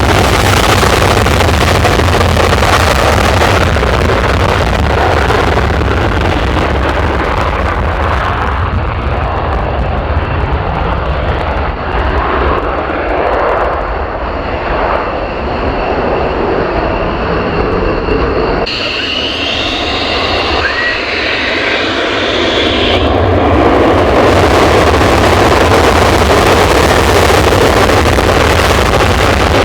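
Loud jet aircraft engine noise: a continuous roar that changes abruptly about 19 seconds in, then swells again from about 24 seconds.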